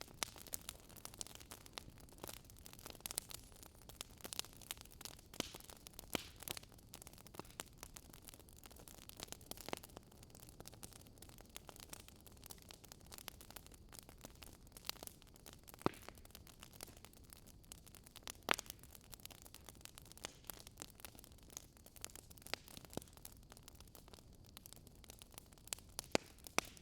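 Wood fire crackling: irregular sharp pops and snaps over a steady low hiss, with a couple of louder snaps past the middle.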